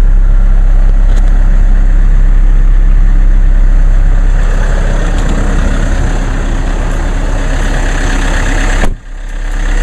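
2014 Chevrolet Cruze 2.0-litre turbodiesel idling cold just after a start at 23°F, heard from inside the cabin with the defroster fan blowing. Near the end the sound drops out abruptly for a split second and then comes back.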